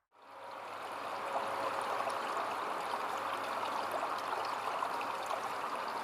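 Water flowing in a small stream: a steady rush with many small splashes, fading in over the first second.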